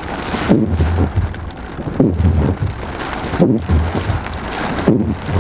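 Heavy thunderstorm rain pelting a car's windshield and roof, heard from inside the cabin, with the windshield wipers sweeping regularly about every one and a half seconds.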